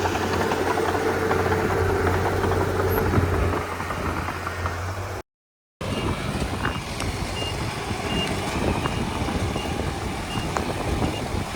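Bulldozer's diesel engine running. After a short break in the sound it runs on with a reversing alarm sounding short, evenly spaced high beeps, a little more than one a second.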